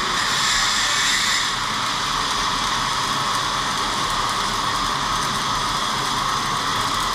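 Arc welding running with a steady hiss, a little louder and brighter in the first second and a half.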